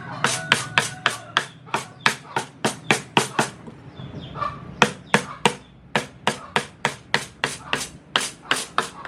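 Wooden mallet tapping a carving chisel into wood in quick, steady strokes, about four a second, with a short pause about halfway through.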